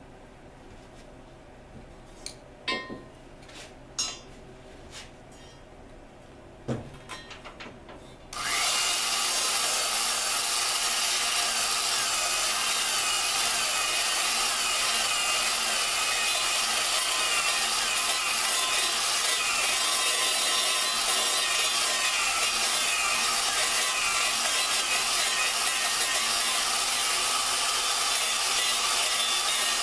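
A few light clicks and knocks. About eight seconds in, a drill starts spinning a valve against its seat in a Dodge 4.7 cylinder head and runs without a break, the lapping compound grinding steadily as it wears the seat to a dull, even sealing ring.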